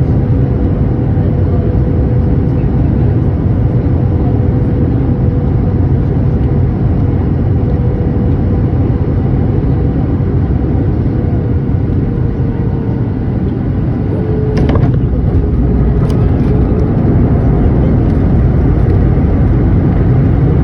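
Steady cabin rumble of a jet airliner on landing, with a faint engine whine that drops slightly in pitch. About two-thirds through there is a single sharp thump, typical of touchdown, after which the rumble grows a little louder as the plane rolls out on the runway.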